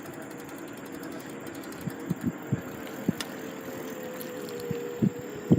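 Electric bike riding: the motor gives a steady whine that sinks slightly in pitch near the end. Several dull thumps come from the bike going over bumps.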